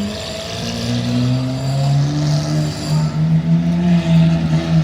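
A motor vehicle's engine running close by in street traffic, its note rising gradually as it pulls away and then holding steady, over general street noise.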